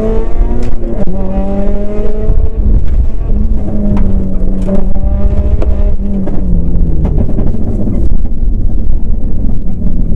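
Rally car's engine heard from inside the cabin, running hard at fairly steady revs, with the pitch dipping briefly about a second in and again around seven seconds in. Sharp clicks and knocks come through at intervals.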